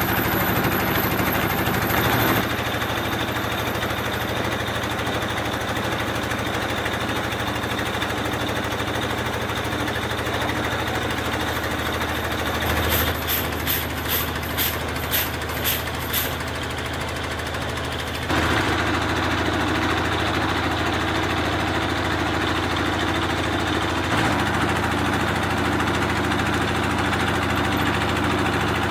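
Factory machinery running with a steady hum that changes character abruptly a few times. Around the middle there is a quick run of about eight sharp clicks or strikes.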